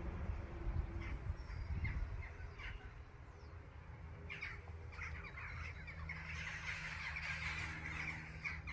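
Birds calling: a scattering of short calls, then a denser run of calling near the end, over a low background rumble.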